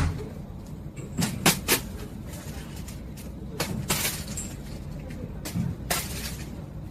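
A handful of sharp knocks and clatters, about seven spread through the clip, over a steady low rumbling background noise.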